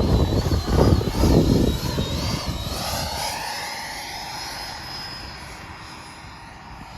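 Radio-controlled electric model airplane flying past, its motor whining high with the pitch wavering as the throttle changes, then fading as it flies away. Wind buffets the microphone early on.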